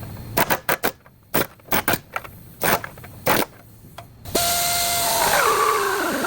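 A run of sharp metallic clicks and knocks, then, about four seconds in, a power tool starts abruptly and runs with a steady hiss and a whine whose pitch falls as it takes load.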